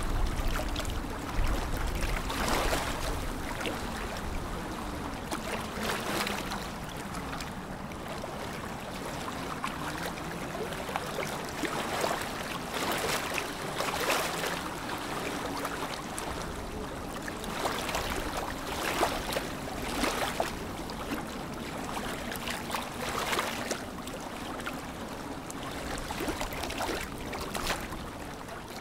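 Lake water lapping, a steady wash with louder splashes every second or few.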